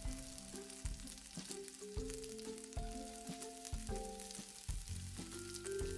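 Small dried anchovies sizzling and crackling in grapeseed oil in a frying pan, a fast patter of fine ticks. Background music of held, changing notes plays over it.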